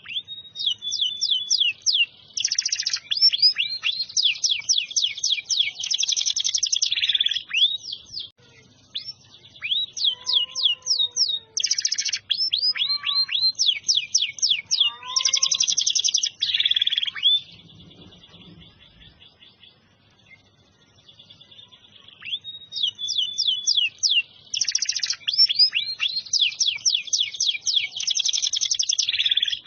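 Domestic canary singing long song phrases of fast rolling trills and held high notes. It breaks off for a few seconds just past halfway, then starts singing again.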